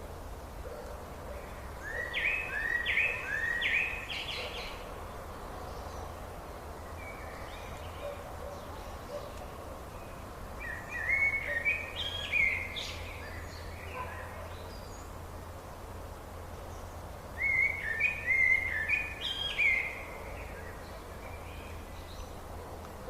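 A songbird singing three short phrases of quick repeated chirping notes, roughly seven seconds apart, over a steady background hiss and low rumble.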